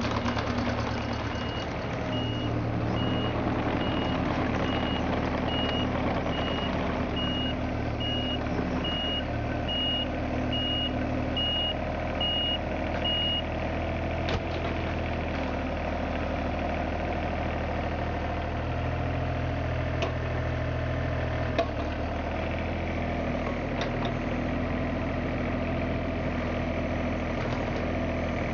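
John Deere 35ZTS compact excavator's diesel engine running steadily, with its warning alarm beeping about twice a second for roughly the first twelve seconds, then stopping. A few sharp knocks sound later on.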